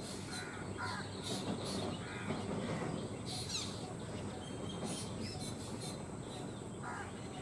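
Several birds calling: short harsh, caw-like calls a few times, mixed with many brief high chirps.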